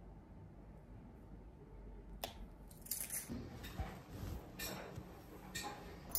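Faint household handling sounds: a sharp click about two seconds in, then soft, irregular knocks and rustles of objects being moved.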